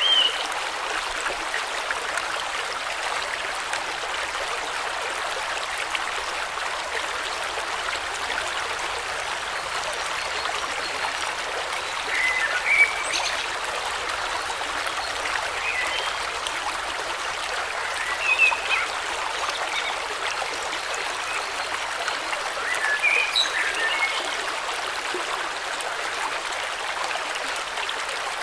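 River water flowing steadily, with short bird chirps now and then, the loudest about halfway through.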